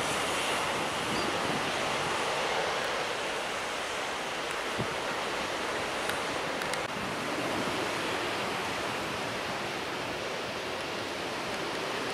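Surf washing onto a beach: a steady, even rush of waves.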